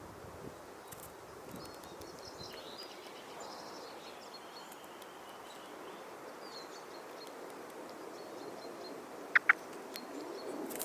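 Garden songbirds chirping faintly and intermittently over a steady outdoor hush, with two short, loud high chirps close together near the end.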